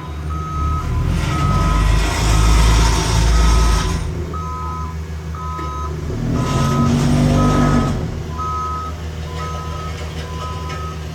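Two-tone reversing alarm on heavy paving equipment, beeping high and low in turn about twice a second, over a running diesel engine that grows louder twice.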